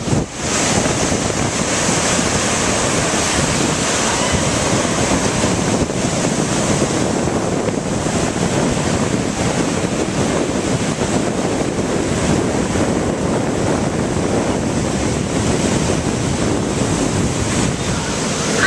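Ocean surf washing steadily onto the beach, with wind blowing across the microphone.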